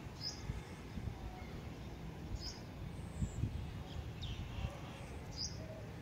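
A bird giving short, high chirps every two to three seconds, one of them a falling note, over a steady low rumble.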